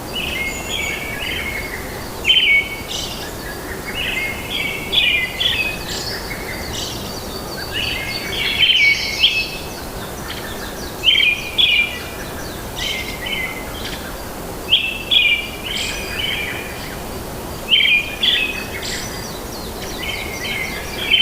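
Songbird singing short bursts of high chirping notes, a phrase every two to three seconds, over a steady background hiss.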